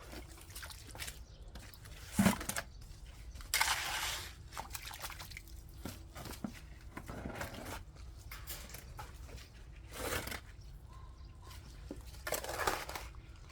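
Wet, mud-like clay soil being dug, giving separate scrapes and squelches a few seconds apart. The loudest is a sharp knock about two seconds in.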